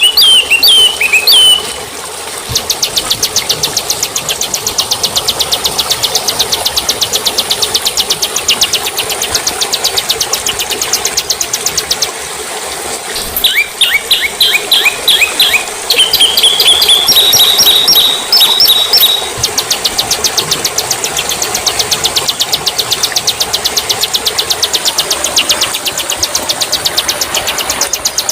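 Songbird song from a bird-song training recording: a fast, even series of sharp high ticking notes, about five a second, with a burst of quick whistled chirps and slurred sliding notes about halfway through.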